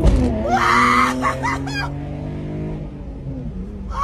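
Straight-piped Chevrolet Camaro exhaust: the revs drop back from a blip and settle toward idle, with a sharp pop at the start. A woman screams over it from about half a second in, for over a second.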